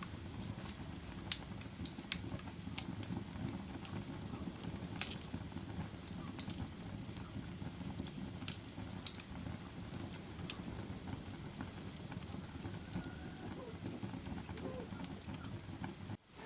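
Fire crackling: a steady low rush with sharp, irregular pops and snaps scattered through it, the loudest about a second in. The sound cuts out for a split second near the end.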